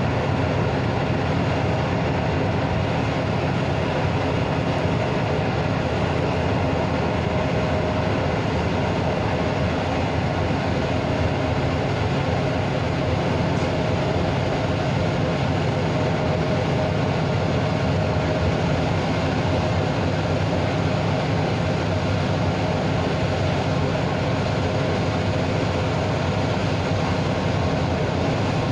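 Container freight train of flat wagons rolling past: a steady rumble of steel wheels on the rails, holding at one level throughout.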